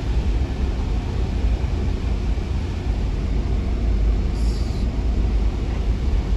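A vehicle driving along, with a steady low engine and road rumble. A brief high-pitched sound comes about four and a half seconds in.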